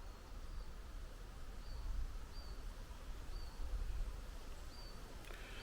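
Wind rumbling low on the microphone over a faint steady hiss, while a bird repeats a short high call about once a second.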